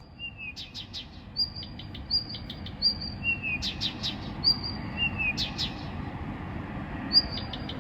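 A songbird singing at night in repeated short phrases: a held high whistle followed by a quick run of sharp notes, with a short falling note slipped in between phrases.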